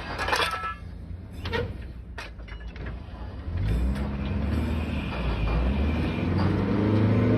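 Engine of a truck-mounted workover rig, with a few sharp clanks in the first half, then the engine revving up about halfway through and staying loud.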